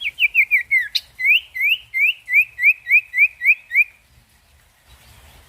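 A sirtu bird singing its rapid 'ngetir' song: a quick run of about six falling notes, a sharp click about a second in, then about ten rising notes at roughly three a second, stopping about four seconds in.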